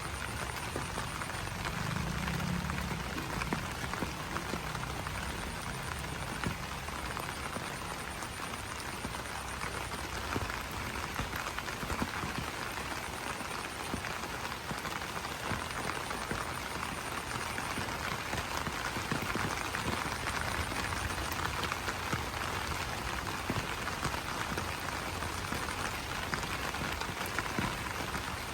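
Steady rain pattering on broad banana leaves. Over it, a rapid, high-pitched pulsing animal call comes and goes in spells.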